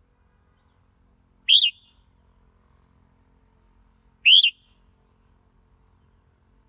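Red-whiskered bulbul calling: two short notes about three seconds apart, each quickly rising and then falling in pitch.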